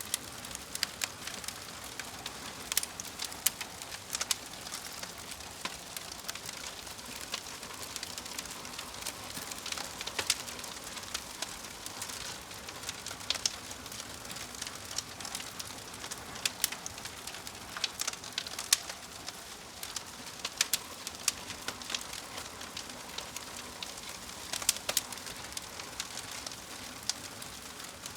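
Wood fire crackling: a steady hiss with irregular sharp pops and snaps, several a second, some louder than the rest.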